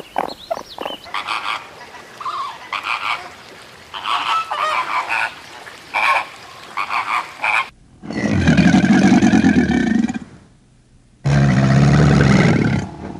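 Animal calls: a quick run of short, honking calls for about eight seconds, then, after a cut, two long, drawn-out calls with a gap between them.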